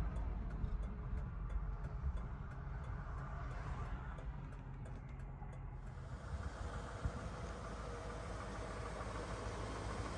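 1976 Cadillac Eldorado's 500 cubic-inch V8 idling with a steady low rumble.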